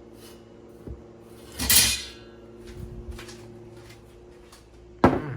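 Dishes and tableware being handled and set down on a table: a soft knock, a louder clatter with a scrape about two seconds in, a few light taps, and a sharp knock near the end. A steady low hum runs underneath.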